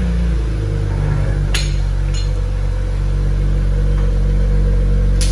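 BMW N54 twin-turbo inline-six idling steadily, its pitch dropping slightly and settling about half a second in. Two short sharp clicks, about a second and a half in and near the end.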